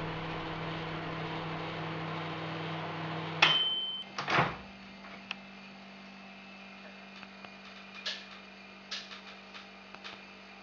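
Microwave oven running with a steady hum, then stopping abruptly about three and a half seconds in with a click and a short high beep. A clunk follows about a second later, then a few light clicks and knocks.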